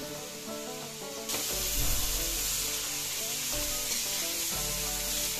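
Chicken pieces and vegetables (cabbage, carrots, green beans) frying in hot oil in a wok with a steady sizzle, which gets louder from about a second in as they are stirred. Background music plays throughout.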